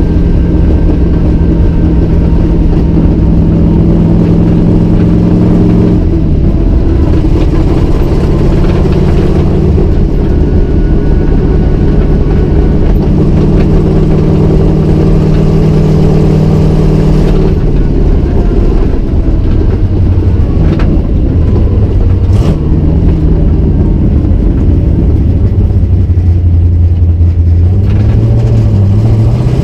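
Cammed 351 Windsor V8 in a Fox-body Mustang with forward-facing headers, heard loud from inside the cabin while driving. The note is steady, changes pitch about six seconds in, drops lower partway through as the throttle eases, and rises again as it accelerates near the end.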